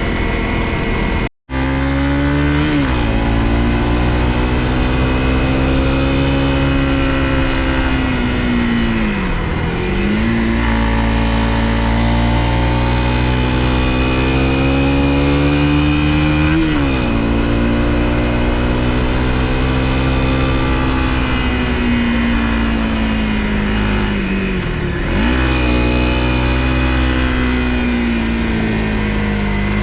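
Honda CRF250L single-cylinder engine running under way. The revs climb and fall with throttle and gear changes, dropping sharply three times. There is a brief cut in the sound about a second and a half in.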